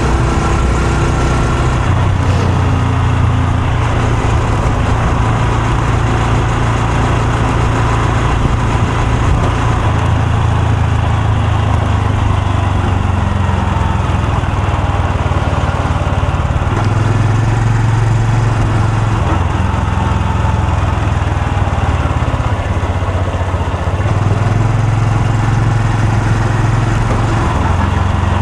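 Honda Super Cub C125's air-cooled single-cylinder engine and exhaust running under way, its low note shifting up and down a few times with the throttle.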